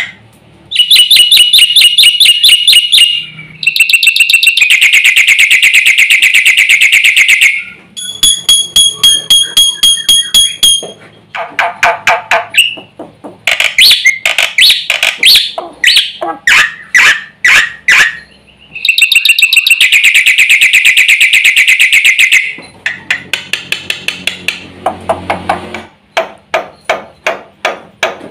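Black-winged myna singing loudly in varied phrases: long runs of rapid repeated chattering notes, sharp clicks and high whistles, a song full of mimicked phrases (isian).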